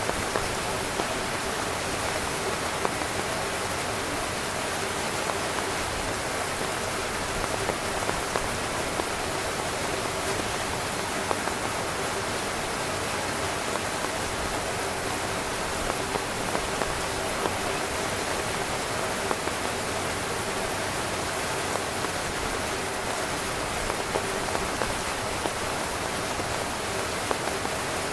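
Heavy rain falling on a camping tent: a steady, dense hiss with frequent small taps of drops hitting the fabric.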